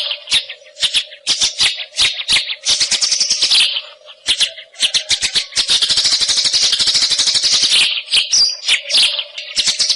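White-rumped shama singing long runs of fast, harsh rattling chatter notes, with a short lull about four seconds in.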